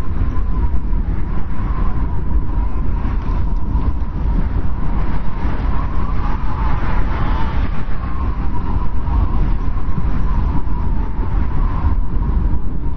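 Strong wind blowing steadily, a deep rumble with a thin whistling tone above it that swells for a moment around the middle.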